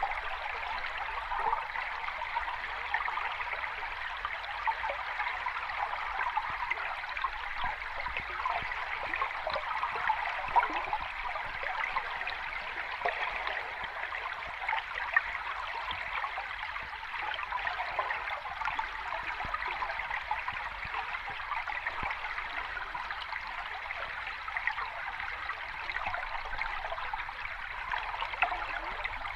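Sea water washing at the shore: a steady watery hiss with many small crackles and no distinct breaking waves.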